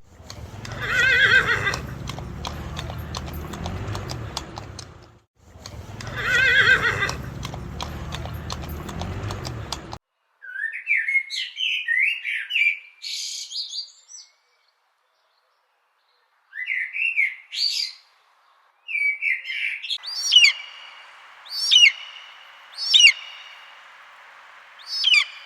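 A horse whinnying twice, each a long wavering call. Then a parrot's choppy squawks in short bursts, and near the end a swan's short repeated calls, about one a second.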